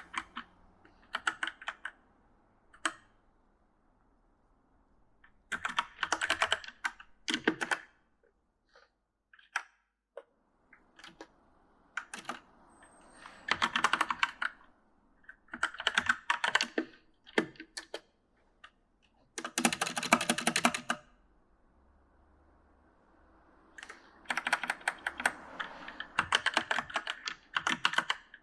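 Typing on a mechanical gaming keyboard (E-Element): bursts of rapid key clicks lasting a few seconds each, broken by pauses with the odd single keystroke.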